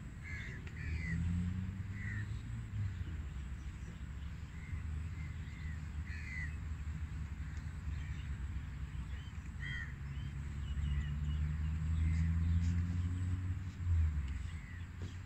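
Birds calling in short, scattered calls, every second or few, over a steady low rumble.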